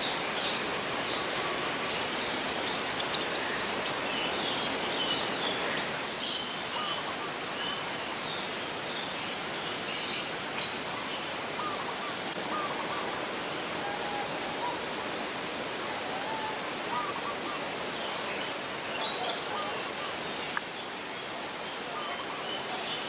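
Steady rush of flowing water, with many short bird chirps and calls scattered through it, a few louder ones about ten seconds in and again near the end.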